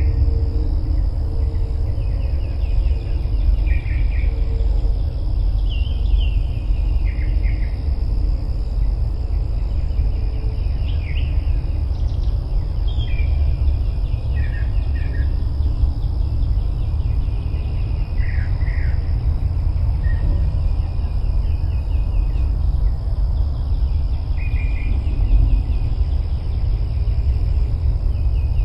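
Wind rumbling on the microphone, with a steady high insect drone and scattered short, repeated bird calls.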